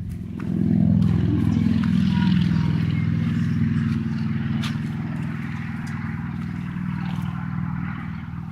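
A motor engine running steadily. It grows louder about half a second in, then slowly eases off.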